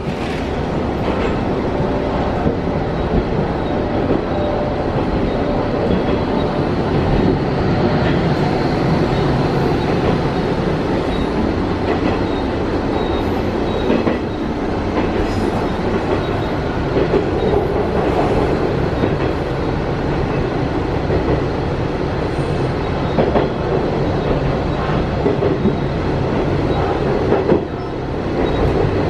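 Tenryu Hamanako Railroad diesel railcar running along the line, heard from inside the passenger cabin: a steady engine and running rumble, with the wheels clicking over rail joints now and then.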